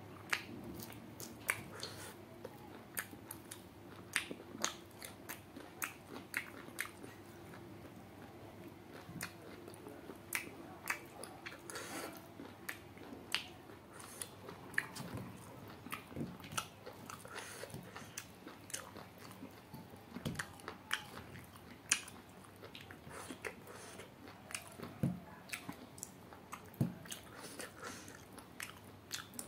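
Close-up eating sounds of a man chewing and biting cooked duck: irregular wet clicks, smacks and small crunches from the mouth and the greasy fingers, with a few louder ones toward the end.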